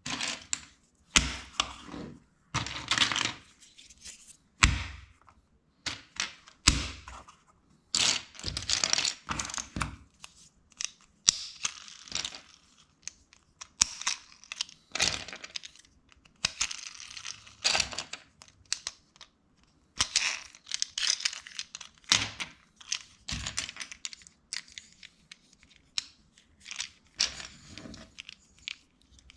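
Plastic LEGO bricks being handled and pressed together: irregular sharp clicks and taps, with bursts of rattling and rustling between them.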